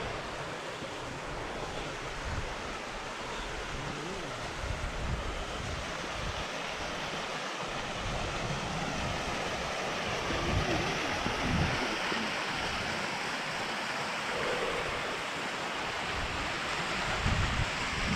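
Steady rush of a mountain stream, with wind buffeting the microphone in low, uneven thumps.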